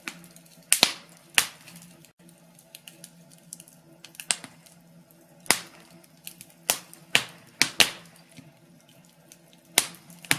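Wood fire crackling in a fireplace: irregular sharp pops and snaps, about ten loud ones among smaller ticks, over a faint steady low hum.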